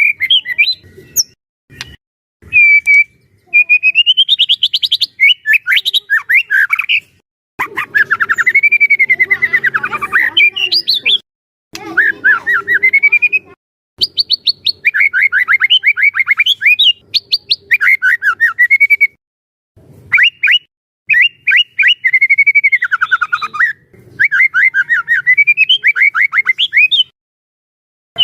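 White-rumped shama (murai batu) singing vigorously: fast runs of short, rapidly repeated notes that sweep up and down in pitch, delivered in phrases of a few seconds with brief pauses between them.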